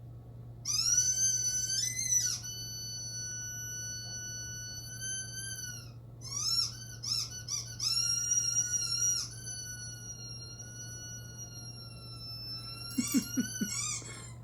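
A long, high-pitched squealing whine with wavering pitch, sustained for several seconds at a time in a few long stretches. Near the end come a few short low grunts.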